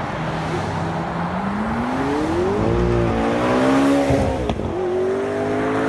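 A car engine accelerating hard. Its revs rise, drop sharply about four and a half seconds in with a short crack as it shifts up, then climb again.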